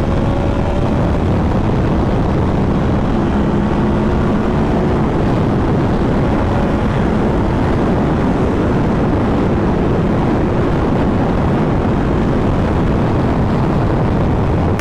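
Wind rushing over a helmet-mounted microphone at highway speed on a 2015 Yamaha R1, with the bike's inline-four engine and Yoshimura exhaust humming steadily underneath. The engine note climbs a little at first, then holds as the bike cruises.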